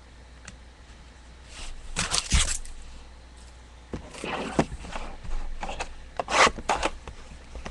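Trading cards and their packaging being handled: a few short rubbing and scraping rustles as cards are slid out and shuffled.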